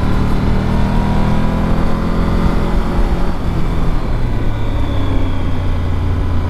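Triumph Tiger 1200's three-cylinder engine running under way on the open road, its pitch easing slightly early on, with steady wind noise.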